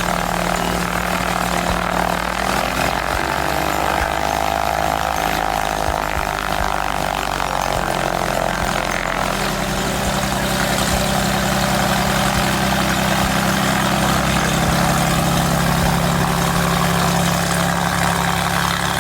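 Continental O-470 six-cylinder piston engine of a Fuji LM-1 Nikko light aircraft running steadily with its propeller turning, a continuous engine drone and propeller noise.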